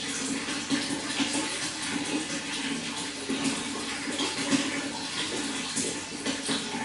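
Water running and splashing continuously, a steady rushing with a fluttering, gurgling texture.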